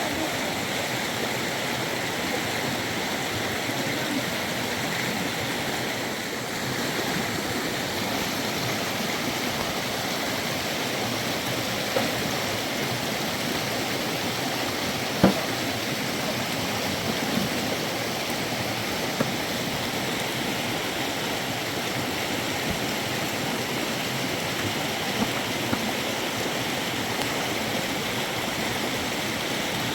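A river running steadily, with a few brief knocks or clicks over it, the sharpest about halfway through.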